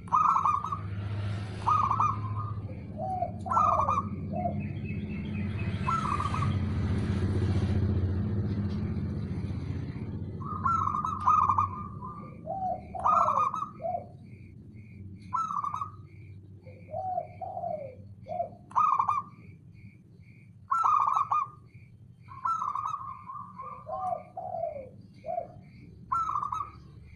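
Zebra dove (perkutut) cooing, the same short phrase repeated again and again with pauses between. A low rumble runs under the first ten seconds or so, and a steady series of short high chirps, about two a second, goes on throughout.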